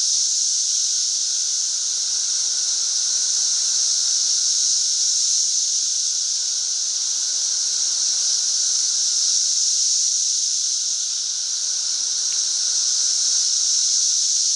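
Chorus of many periodical cicadas (Magicicada) singing together: a loud, steady, high-pitched droning whine that does not let up.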